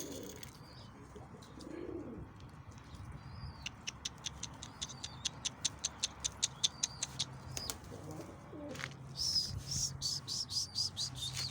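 Domestic pigeons cooing, with high chirping bird calls. A quick run of sharp ticks, about four or five a second, comes in the middle, and a burst of high chirps comes near the end.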